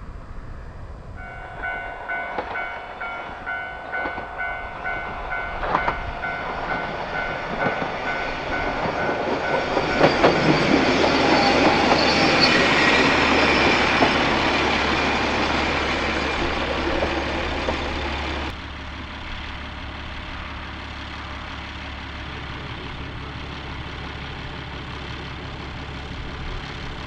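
Railway level-crossing alarm bell ringing in a steady beat of about two strokes a second as a single diesel railcar approaches. The railcar's wheels and engine grow loud and pass about ten seconds in. After a sudden cut, the diesel railcar idles at the station with a steady low engine hum.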